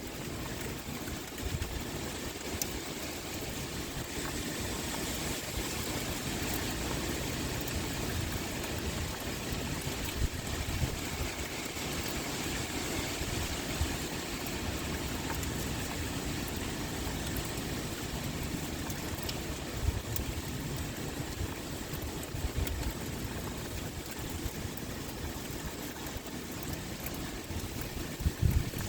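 Steady pouring rain with wind, an even hiss of many drops. A few brief low rumbles rise out of it, one about two-thirds of the way through and one near the end.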